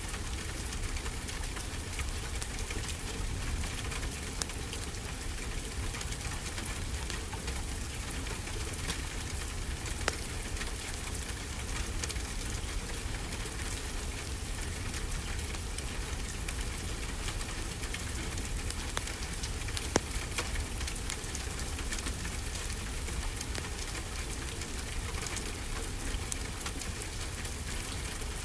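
Steady rainfall mixed with a wood fire crackling, with scattered sharper pops, the loudest about twenty seconds in.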